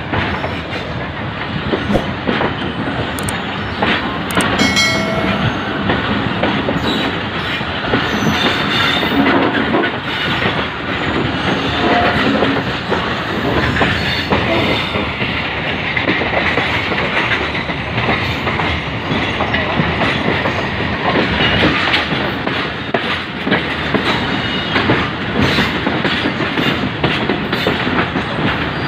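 Express passenger train running on the rails, heard from aboard a coach as it pulls out of the station: a steady rumble of the wheels with many clicks over the rail joints.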